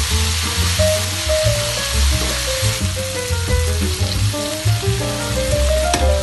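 Chili sambal with dried anchovies frying in a wok, a steady sizzle. Background music with a melody and a bass beat plays over it.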